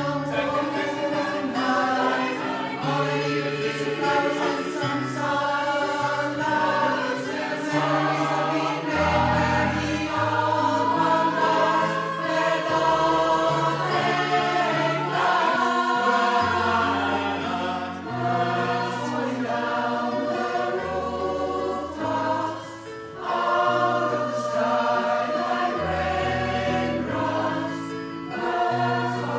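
Pop choir singing in several-part harmony over an accompaniment whose bass moves in long held notes. It is a rehearsal run-through, and the sound drops briefly twice before picking up again.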